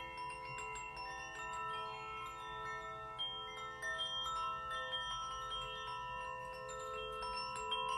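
Metal chimes ringing: many high bell-like tones struck one after another, each ringing on and overlapping the others.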